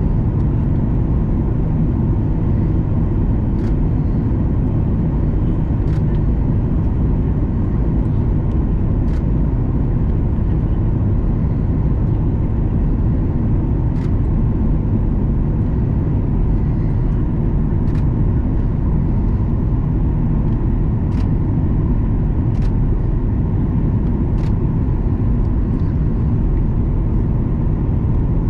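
Steady cabin rumble of a Boeing 737 MAX 9 on approach, the CFM LEAP-1B engines and airflow heard from inside the cabin, with a faint steady tone and occasional faint clicks.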